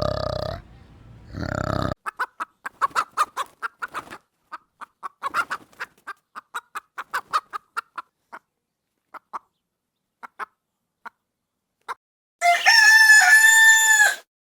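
Chickens clucking, a long run of short clucks that come fast at first and grow sparse. Then a rooster crows once, for about two seconds near the end. It is preceded at the very start by the end of a lower call from a different animal.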